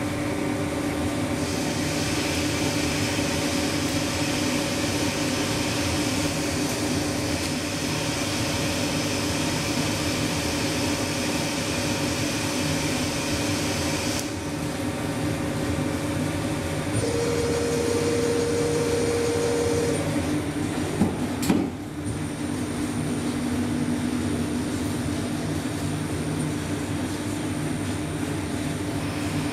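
Weiler 160 CNC lathe running a test program to turn a threaded nipple: a steady machine hum whose tones change from section to section as the program steps along, with a hiss that stops about halfway through and a sharp click about two-thirds of the way in.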